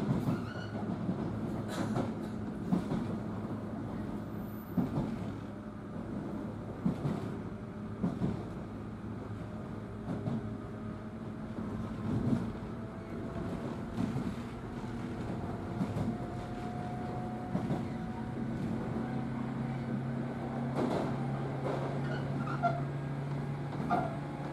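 Inside a 103 series electric commuter train car while it runs: a steady rumble with rail-joint clicks every second or two, and a faint motor hum that climbs slowly in pitch in the second half.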